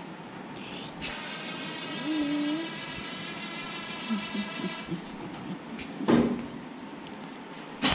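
A handheld power tool's motor whining steadily for about four seconds as a fastener is worked in the engine bay, followed about six seconds in by a single sharp metal knock.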